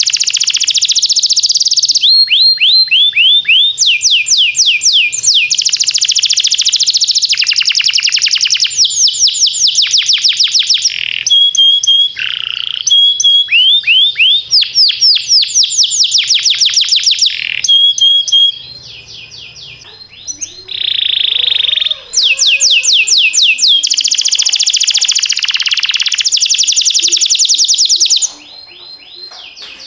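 Domestic canary singing in long, fast trills of rapidly repeated down-sweeping notes, phrase after phrase with brief breaks, the song dropping away for a moment about two-thirds through and again near the end.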